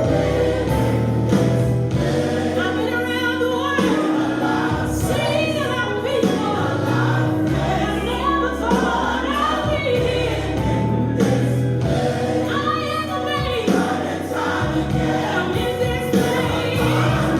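Recorded gospel song playing: choir vocals over a steady instrumental backing.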